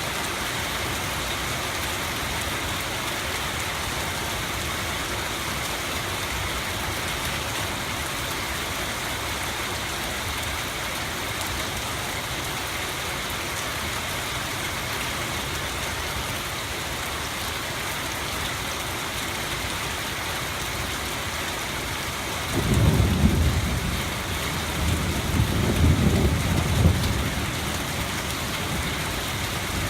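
Steady rain hiss throughout, with a low rolling rumble of thunder near the end that swells twice over about four seconds.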